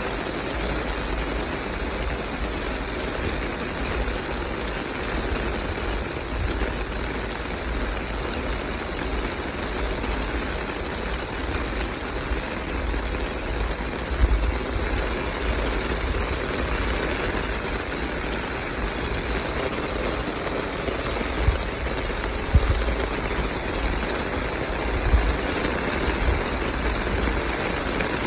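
Heavy rain falling steadily, a continuous even hiss, with a low rumble underneath and a few brief thumps in the second half.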